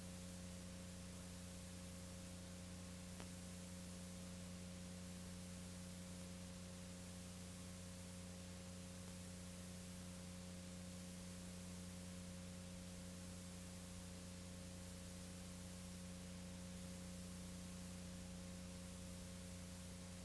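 Steady electrical hum under a faint even hiss, with nothing else happening: the recording's background noise.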